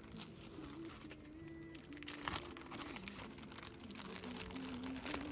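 Faint, soft background melody of slow, held notes, with light crinkling and clicking over it.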